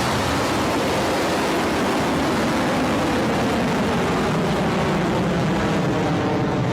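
Rocket Lab Electron rocket's nine Rutherford engines burning just after liftoff, a loud, steady, even rush of noise.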